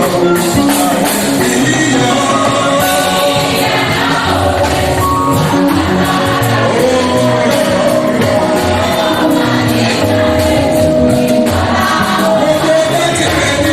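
A choir singing a gospel song with full band accompaniment, sustained sung lines over a steady backing with tambourine-like percussion.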